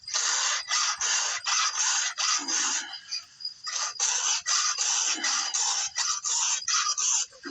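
Chainsaw chain being sharpened by hand with a file: quick rasping file strokes, about three a second, with a short pause a little under halfway through.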